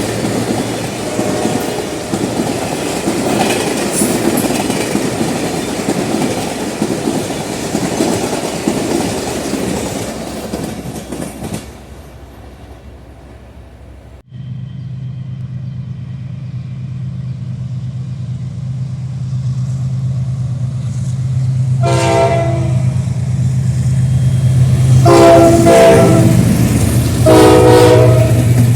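A train passes close by with wheel clatter, fading away about halfway through. Then a General Electric diesel locomotive approaches with a steady engine drone, growing louder, and sounds its horn in three blasts near the end, the last two long and loud.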